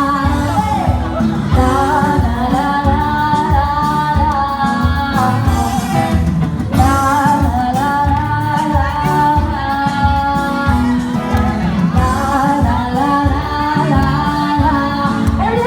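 Live acoustic band playing a song, a female singer's voice carrying the melody over guitar and a steady beat.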